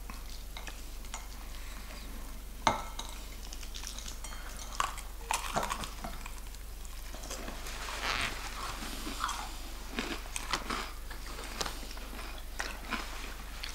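Close-up eating sounds: a person biting into and chewing extra crispy fried chicken glazed in hot honey sauce, with scattered crunches and small wet clicks. One sharp click stands out about three seconds in.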